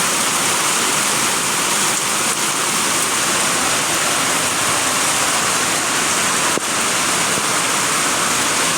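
Rain pouring down in a loud, steady, unbroken hiss.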